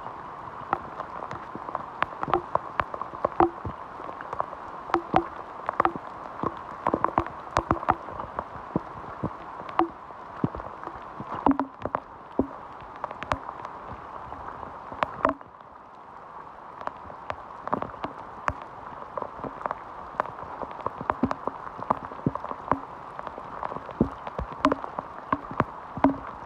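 Heavy rain: many irregular, sharp drop taps close by over a steady hiss of falling rain.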